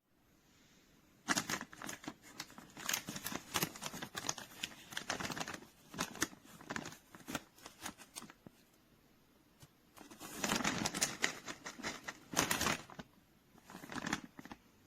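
A packaging bag being handled, crinkling and rustling in irregular bursts with sharp clicks, with a short pause about nine seconds in.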